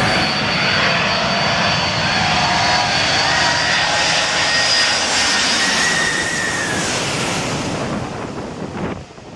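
Airplane flying low overhead: loud engine noise with high whining tones, dying away in the last second or so.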